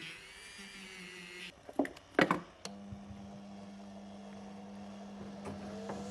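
A small high-pitched power tool whines, then cuts off about a second and a half in. A few sharp knocks follow, the loudest just after two seconds, and then a steady low hum.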